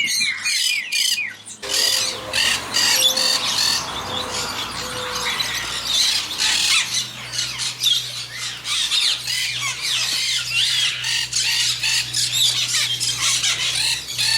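Many caged parrots and conures squawking and screeching, their harsh calls overlapping constantly. The sound changes abruptly about a second and a half in, and a steady low hum sits under the calls in the second half.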